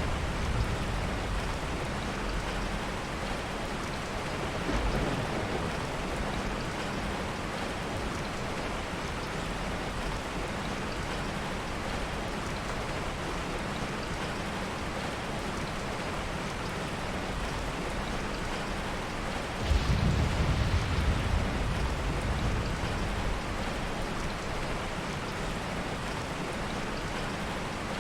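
Heavy rain falling in a steady hiss, with a soft low thunder rumble about two-thirds of the way through and a fainter one about 5 seconds in.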